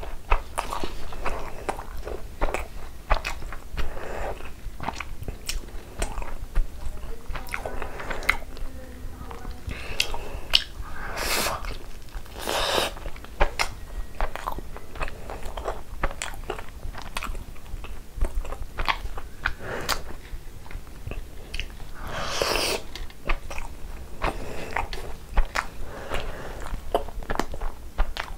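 Close-miked chewing and biting of a soft Indian milk sweet (a cream-filled malai sandwich), with many sharp wet mouth clicks and smacks and a few louder noisy bursts along the way.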